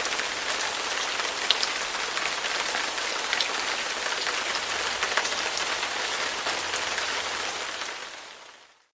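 Steady rain, a dense hiss with scattered small drop ticks, fading out near the end.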